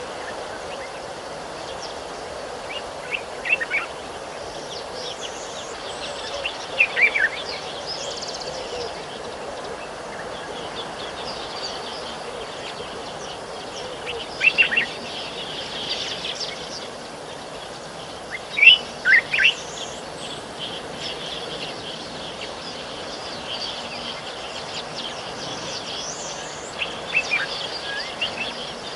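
Wild birds calling: a short phrase of two to four quick falling notes, repeated five times at intervals of a few seconds, over a steady background hiss of outdoor ambience.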